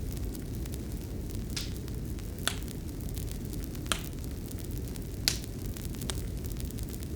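Wood fire crackling: a steady low rumble and hiss with about five sharp pops spaced a second or so apart.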